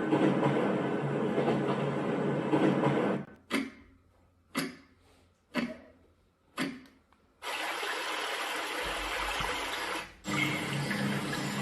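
A Babelio white noise machine's speaker at full volume, stepping through its built-in sound tracks. First a steady rushing, water-like noise. Then, from about 3.5 s, four sharp ticks about a second apart. About halfway through, a steady, even hiss of noise comes in, cut off for a moment shortly before the end.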